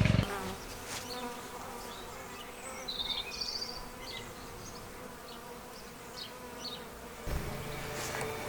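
Wild honeybees buzzing in a steady hum as the swarm runs into the bait hive, with a few short high chirps about three seconds in.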